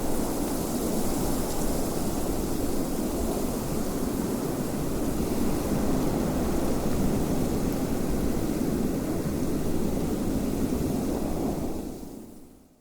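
Steady wind blowing, a dense rushing noise that fades out near the end.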